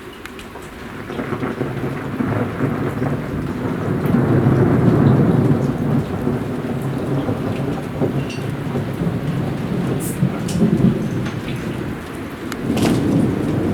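Rolling thunder over heavy rain: a long low rumble builds about a second in, is loudest midway, then eases, and surges again near the end, with the rain pattering steadily throughout.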